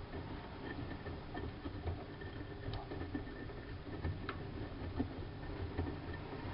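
Siemens Siwamat IQ washing machine running, a steady low hum with occasional faint clicks and knocks.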